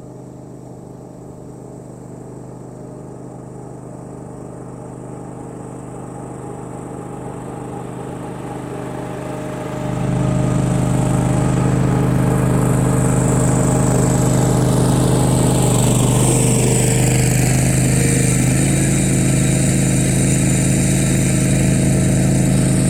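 John Deere greens mower running while it mows a dew-covered green: a steady engine hum that grows louder, jumping suddenly about ten seconds in as the mower comes close. A high whir joins it, and a higher whine slides down in pitch near the end.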